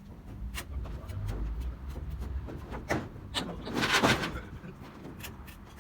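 Demolition debris from a corrugated metal roof being handled: a series of sharp knocks and clanks, with a longer, louder scraping clatter about four seconds in.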